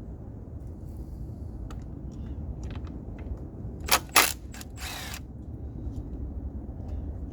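Hand tools handled during engine work: two sharp clicks a moment apart, then a short scraping rasp, over a steady low rumble.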